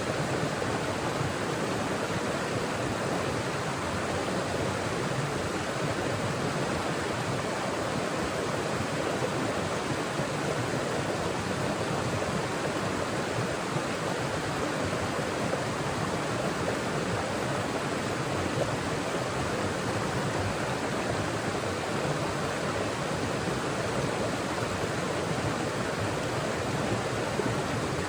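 Forest mountain stream flowing over rocks: a steady rush of water.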